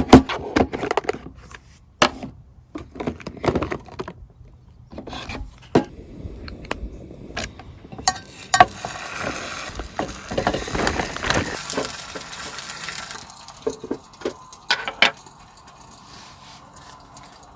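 Clinks, knocks and rattles of snack packages and beer containers being handled and taken out of storage, with a steady hiss for about four seconds in the middle.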